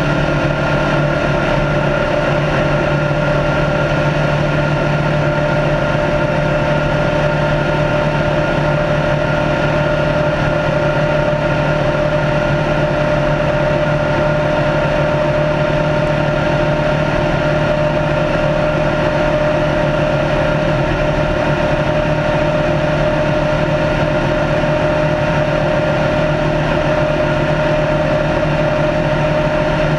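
Race car's engine running under steady load at constant high speed, its pitch holding level, over a wash of tyre and road noise.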